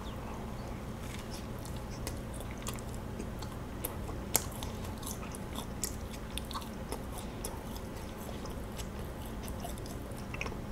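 A person biting into and chewing kaya toast, toasted white bread: soft, scattered crunching clicks, with one sharper crunch about four seconds in.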